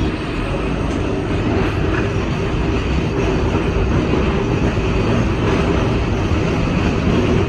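Steady running noise of a New Orleans 900-series streetcar moving along its track, heard from inside the car: wheels on rails and the car's own running sounds, growing slightly louder.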